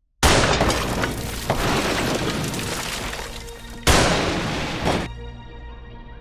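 Two loud gunshot blasts from a handgun, about three and a half seconds apart, each followed by a long decaying tail; the second is cut off abruptly and gives way to a low steady drone.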